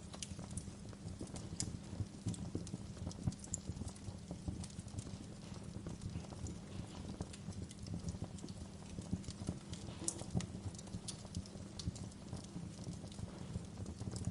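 Wood fire burning in a fireplace: a steady low rumble of flames with irregular crackles and sharp pops, a few louder pops around the middle.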